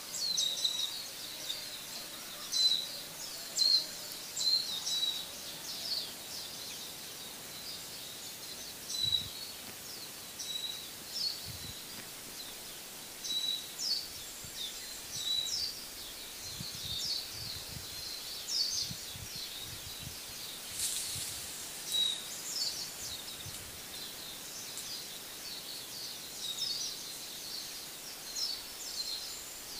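Small birds chirping outdoors: many short, high chirps in irregular runs over a steady background hiss.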